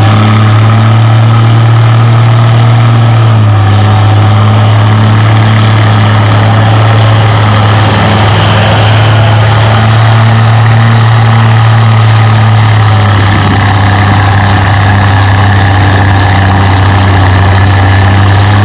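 Oliver 77 tractor engine running loud and steady under load, pulling a weight-transfer sled. The pitch holds nearly constant, with small shifts a few seconds in and again after about thirteen seconds.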